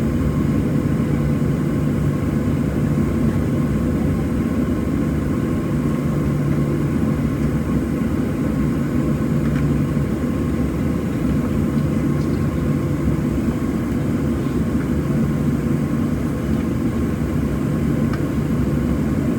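Cabin noise of a Boeing 737-700 with its CFM56-7B engines running at a steady, low setting: an even low hum with faint steady tones, heard from inside the passenger cabin.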